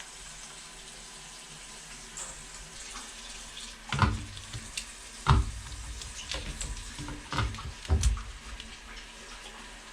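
Water running steadily from a tap or shower, with several sharp knocks from handling about four, five and a half, seven and a half and eight seconds in.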